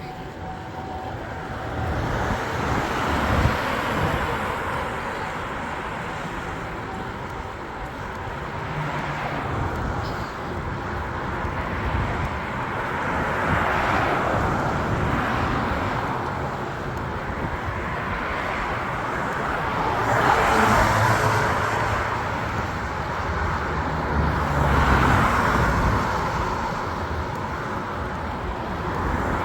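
Road traffic heard while riding: several cars pass one after another, each swelling and fading, over a steady rumble of wind and road noise.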